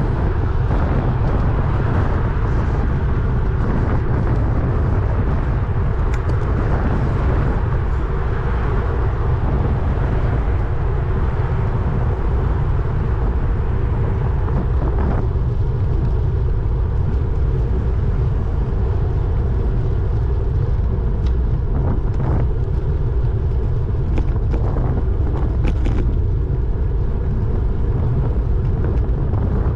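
Steady low rumble of wind and road noise while moving along a road, with a few faint ticks.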